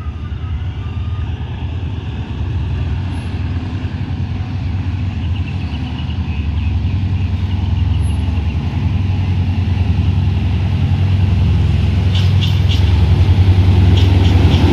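Diesel train's engine running with a low, pulsing drone that grows steadily louder, with a few sharp clicks near the end.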